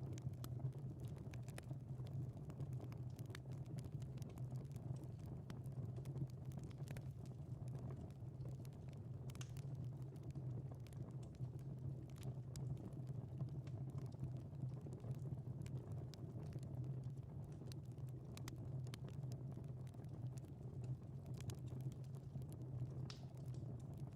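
Fire crackling in a fireplace: irregular small pops and snaps over a steady low rumble of burning.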